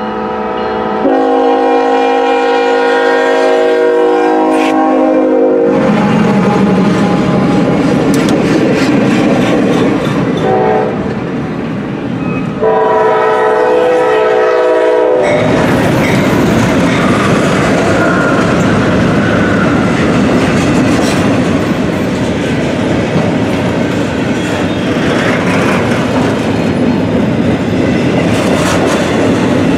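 CSX freight locomotive's air horn sounding long blasts, a short one and a final long one as the train approaches, the pattern of a grade-crossing signal. About halfway through, the horn stops and the locomotives pass close by, followed by intermodal cars rolling past with wheel clickety-clack.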